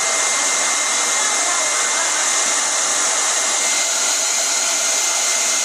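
Handheld hair dryer blowing steadily: a constant airy hiss with a thin, steady high whine.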